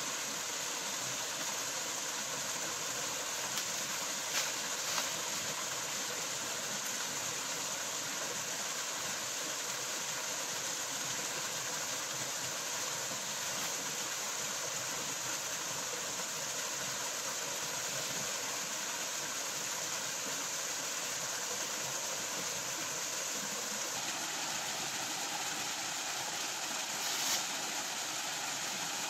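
Steady, unbroken rush of a waterfall pouring among rocks, with a few brief clicks.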